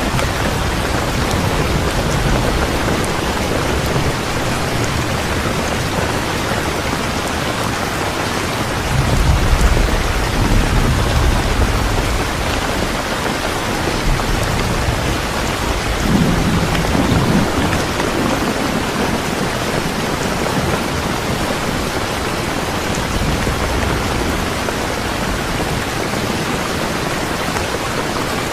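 Steady rain with low rolls of thunder, swelling about a third of the way in and again a little past halfway.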